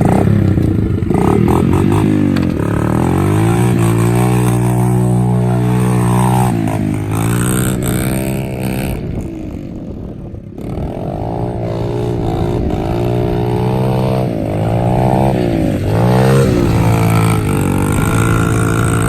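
Small 70cc dirt bike engine being ridden, its revs climbing and dropping over and over, easing off briefly about nine seconds in before revving up again.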